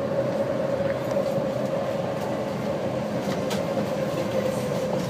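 Cross-flow ceiling fan running steadily inside a train carriage: a constant airy hum with one steady mid-pitched tone, over the carriage's background noise, with a few faint clicks.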